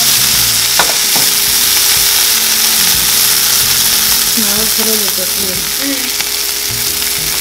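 Vegan patties sizzling steadily as they shallow-fry in a little avocado oil in a nonstick skillet on a gas burner, with one light knock under a second in.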